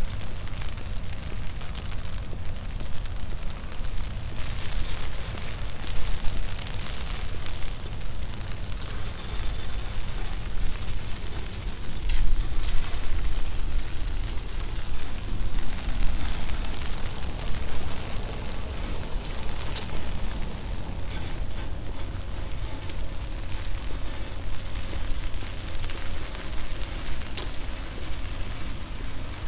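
Steady rain on a city street: continuous rain patter over a low rumble, swelling slightly a few times.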